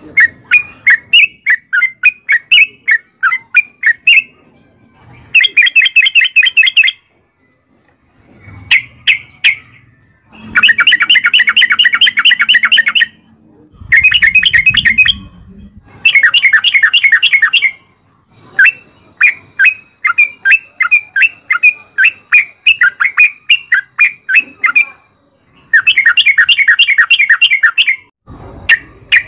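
Yellow-vented bulbul (trucukan) song: loud phrases of rapid, bubbling repeated notes, each burst lasting one to three seconds with short pauses between, the long rolling 'ropel' song used as a lure call.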